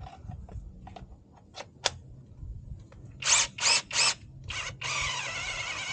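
SeeSii battery-powered mini chainsaw's electric motor, blipped in four short bursts about three seconds in and then held running steadily. A few light handling clicks come before it.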